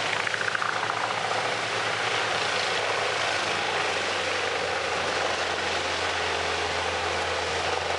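Engine of a large industrial wood chipper running steadily at speed, waiting for the log to be fed in. A brief falling whine sounds in the first second.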